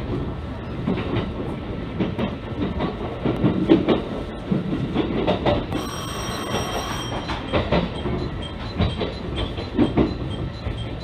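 Train running on the rails, heard from inside the carriage: the wheels rumble and click over the track. A little before six seconds in, a level-crossing warning bell rings briefly as the train passes the crossing.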